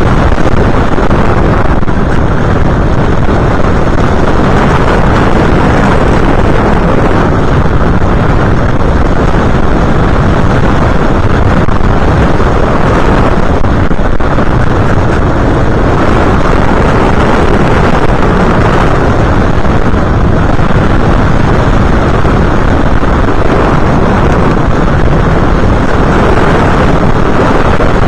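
Loud, steady rush of wind and motor noise on the onboard camera's microphone of an FPV aircraft in flight. The noise stays even throughout, with no distinct tones.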